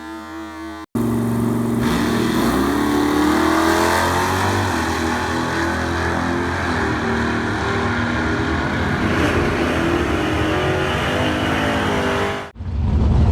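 V8 drag car engine at full throttle, its pitch climbing and shifting as it accelerates down the strip. It starts abruptly about a second in and cuts off abruptly near the end.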